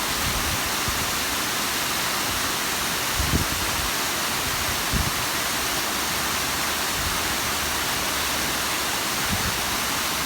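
Bigăr waterfall: water cascading steadily over rock as an even, unbroken rush of falling water. Two brief low bumps sound about three and five seconds in.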